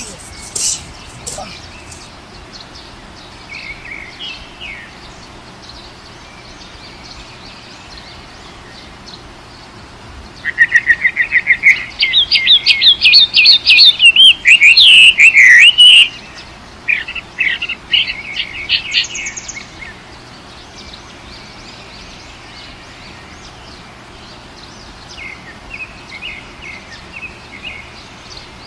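Birds chirping and singing. Softer calls come and go, with a loud stretch of rapid repeated chirps from about ten to sixteen seconds in.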